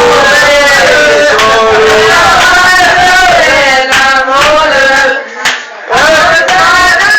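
Loud male singing, a held, wavering melody line, with a short break about five seconds in.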